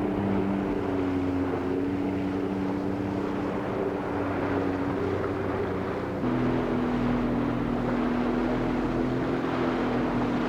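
Boat engine running at steady revs. About six seconds in, its pitch drops slightly and it gets a little louder.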